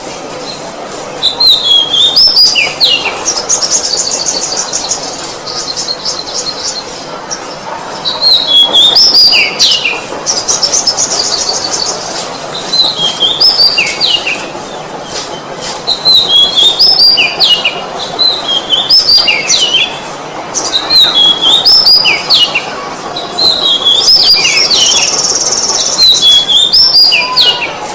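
Oriental magpie-robin singing: loud phrases of sharp, falling whistles, some with a fast high trill, repeated in bouts every few seconds.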